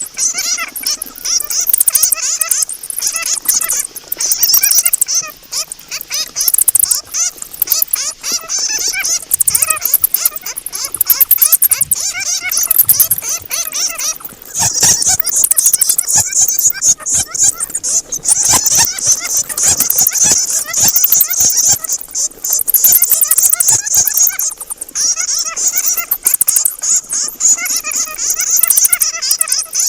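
A group of bats giving rapid, high-pitched squeaking and clicking chatter, coming in dense bursts with brief lulls.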